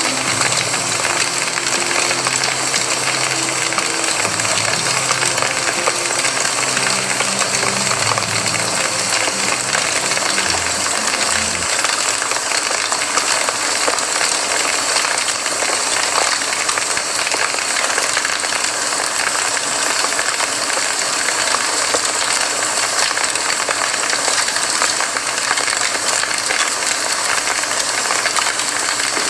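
Campfire crackling and popping in a dense, steady stream of small snaps. Soft low musical notes sound faintly underneath for the first dozen seconds and then stop.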